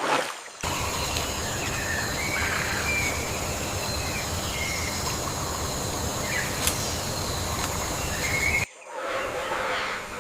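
Rainforest ambience: a steady rushing noise with a high, constant hiss and several short bird whistles over it, cutting off abruptly near the end.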